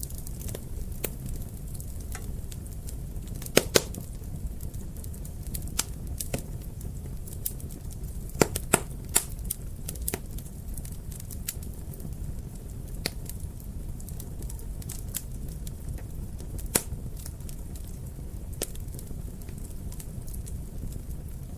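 Wood fire burning in a fireplace: a steady low rumble of flames with irregular crackles and sharp pops, a few louder snaps about a third of the way in and near the middle.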